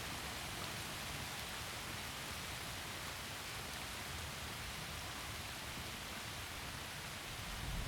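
Heavy rain falling steadily through forest trees, an even hiss with no breaks. A low rumble of thunder starts to build right at the very end.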